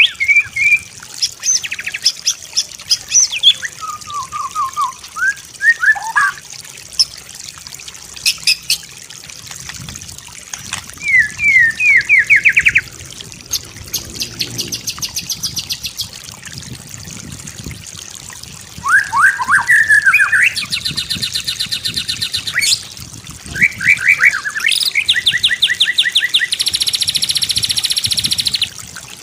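White-rumped shama singing a varied song of whistled glides, quick slurred note runs and rapid rattling trills, with long buzzy rattles in the last third.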